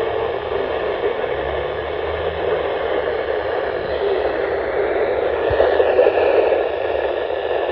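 Steady static hiss from a weather radio receiver, with the broadcast voice lost in the noise as the signal drops out.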